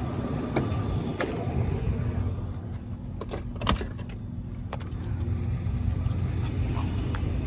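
6.4-litre HEMI V8 of a Dodge Charger 392 Daytona idling with a steady low rumble, its exhaust straight-piped after a mid-muffler and resonator delete. Several sharp clicks and knocks of handling come over it.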